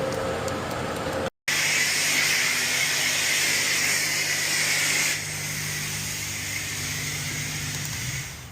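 High-pressure car wash spray wand blasting water: a steady hiss over a low pump hum. The sound briefly cuts out about a second in, and the spray gets quieter about halfway through.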